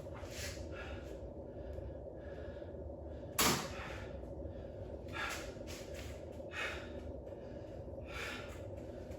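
A person breathing hard after a set of goblet squats, loud breaths in and out every second or so over a steady low hum. A single sharp thump about three and a half seconds in.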